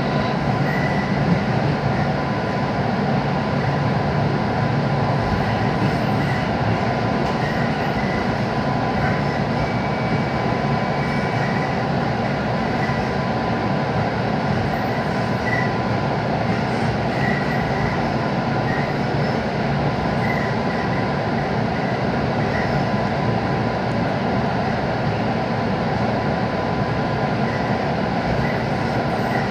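Steady running noise of a JR West 221 series electric train heard from inside the car, with a steady high tone throughout and faint squeals from the wheels. The train is running slowly under a typhoon speed restriction.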